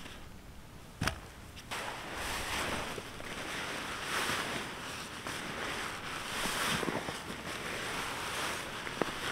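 Strong wind gusting, rising and falling in a rushing noise with wind buffeting the microphone, after a sharp click about a second in.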